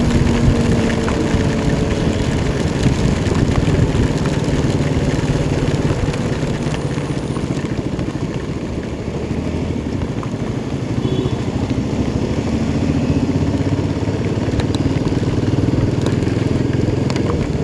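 Royal Enfield Himalayan 450's single-cylinder engine running on the move, its pitch dipping and then rising again with road speed, over a steady rush of wind and heavy rain.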